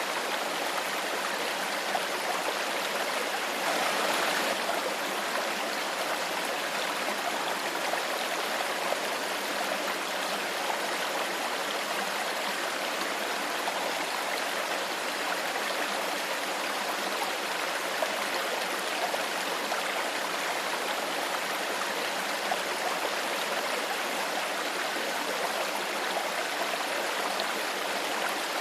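Stream water flowing steadily, a continuous rush of running water that swells slightly for a moment about four seconds in.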